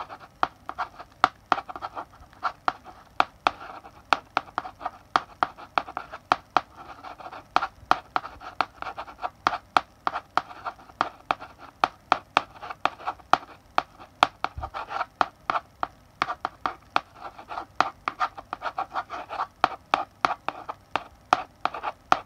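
Chalk writing on a blackboard: sharp taps as the stick strikes the board, several a second, over a scratchy rasp from the strokes, coming in stretches with short pauses.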